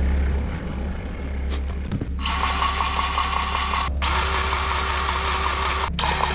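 DeWalt cordless battery grease gun running in short pumping runs: a pulsing motor whine that starts about two seconds in and pauses briefly twice. An engine warming up at idle hums low underneath.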